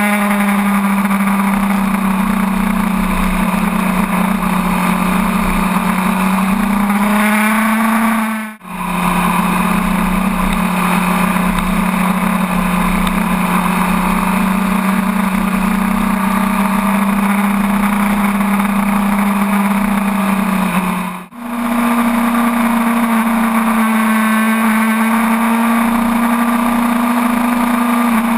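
A sportbike's inline-four engine pulling at a nearly steady high speed, with wind rush, heard from on the bike. The sound cuts out for a moment twice, about a third of the way in and about three quarters in.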